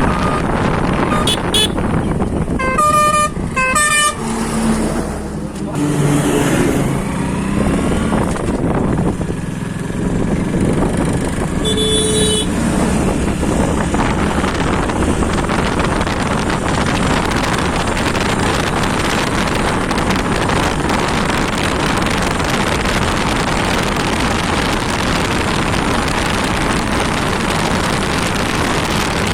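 Vehicle horns honking a few times in traffic, with engine pitch rising and falling, then a steady loud rush of motorcycle engine and road noise.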